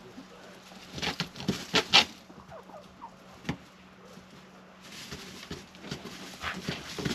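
Hens scratching and pecking about, a scatter of quick taps and scratches that comes in two busy spells, with a few soft clucks.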